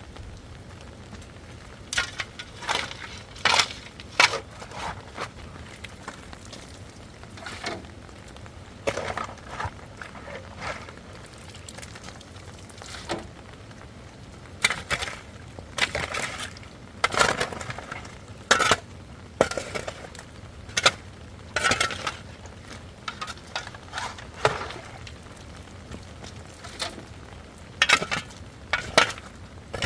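Irregular clinks and knocks of dishes and kitchenware being handled, some strikes ringing briefly.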